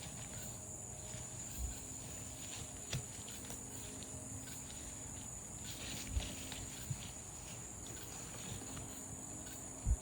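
Steady, high insect chorus of cicadas and crickets, with a few soft low thumps scattered through it.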